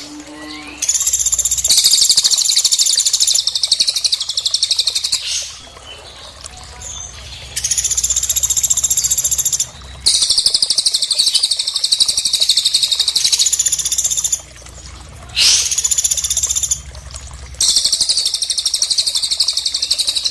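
Songbirds (cililin and pelatuk) singing: about six bouts of rapid, very high-pitched trills, each lasting one to four seconds with short pauses between, one starting with a quick upward sweep.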